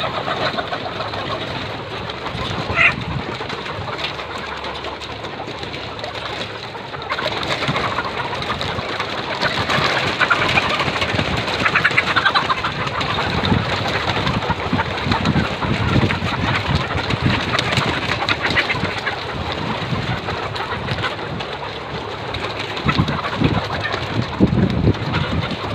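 A flock of laying hens clucking and calling together in a dense, continuous din. It grows louder about seven seconds in.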